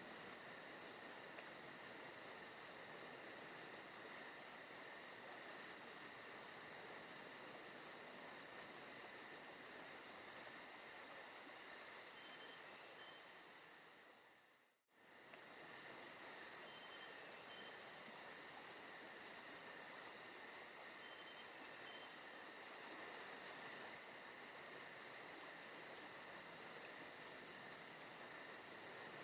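Forest ambience recording of a steady chorus of crickets and other insects, a fast even trill over a constant high drone. About halfway through it fades out and straight back in.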